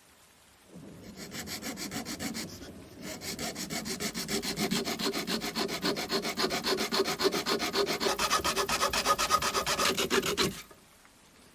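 Quick, even back-and-forth abrasive rubbing strokes by hand on a knife being restored, several strokes a second. After a brief pause the strokes pick up again, grow louder, then stop suddenly.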